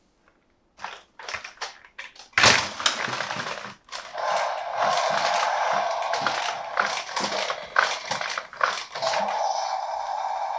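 Toy packaging being handled and opened: a string of clicks and taps, a loud crackle about two seconds in, then continuous crinkling and crackling of the packaging.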